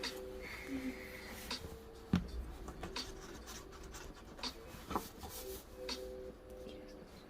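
Writing on paper: short scratching strokes of a pen or pencil, with a single knock on the desk about two seconds in.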